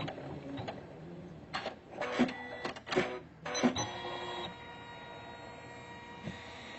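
Usha Janome Memory Craft computerized embroidery machine stitching with a printer-like mechanical clatter, then a run of sharp clicks and knocks about halfway through as it stops at the end of a colour, followed by a quieter steady tone.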